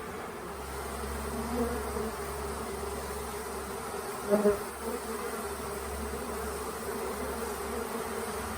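Honeybee swarm buzzing steadily around a nuc box. A louder buzz comes briefly about four seconds in.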